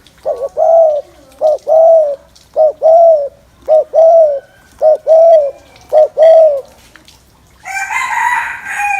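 Spotted dove giving its 'gù' bowing coo: six short two-part coos, a quick note then a longer one, about a second apart and steady in pitch. Near the end a harsher, higher, noisier call cuts in.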